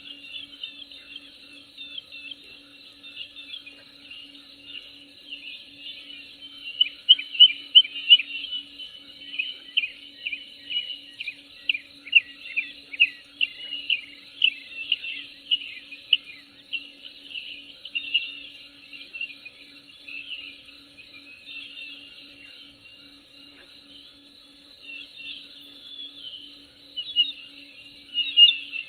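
Small birds chirping and twittering in quick runs of short calls, busiest through the middle and again near the end, over a faint steady low hum.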